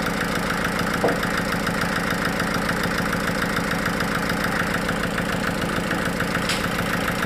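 Sawmill engine running steadily with a fast, even beat, with a single knock about a second in and a short high click near the end.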